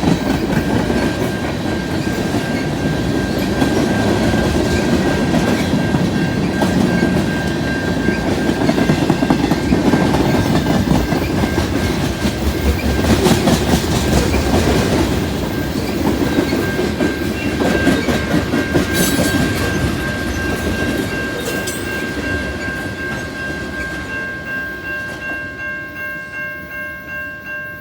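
Freight train cars rolling past at a road crossing, steel wheels clacking over the rail joints in a continuous rumble. The crossing bell rings throughout, and it stands out more as the rumble dies away over the last few seconds.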